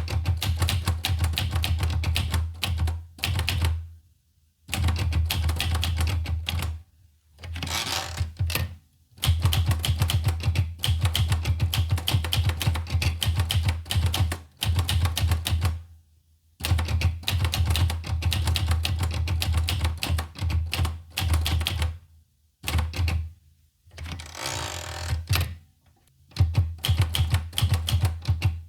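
Olivetti Lettera 25 manual typewriter being typed on: runs of fast keystrokes, broken by short pauses every few seconds.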